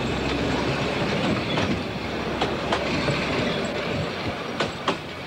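Narrow-gauge Pioneer Railway train rolling past, its wheels clicking irregularly over the rail joints, easing off near the end.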